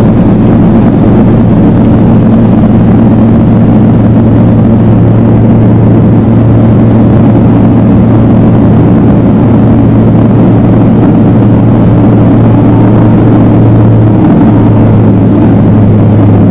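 Loud, steady drone of a turboprop airliner heard from inside the cabin: a low propeller tone over engine and airflow rumble.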